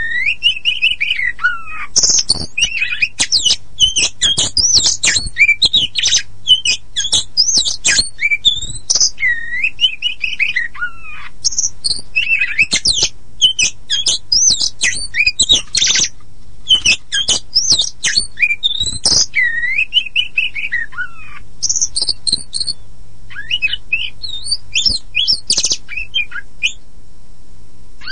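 Oriental magpie-robin of the black-and-white 'poci' form singing a loud, varied song of slurred whistles and rapid chattering notes, broken by brief pauses. It is a lure song meant to set other magpie-robins singing.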